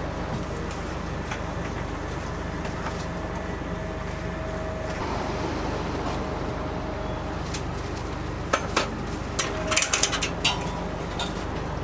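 Steady low machine hum, with a run of sharp clattering knocks for about two seconds near the end.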